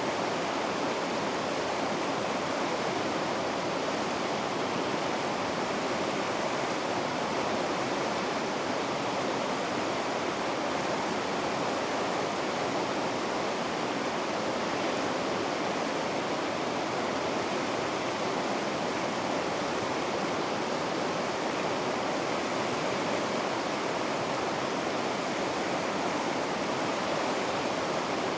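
Water rushing down river rapids, a steady, unbroken rush with no change in level.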